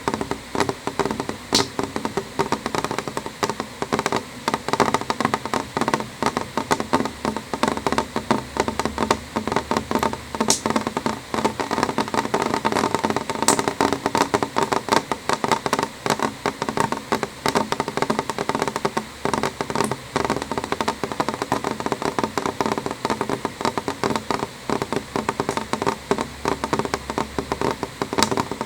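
Rain hitting a window pane: a dense, steady patter of many small drop taps over a soft hiss.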